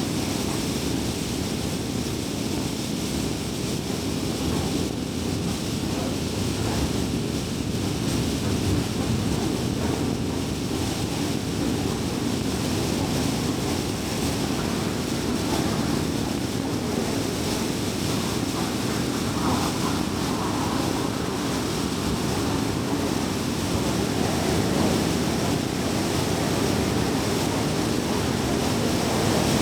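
A car driving at steady speed: an even rush of tyre and road noise with a low engine hum, holding level throughout.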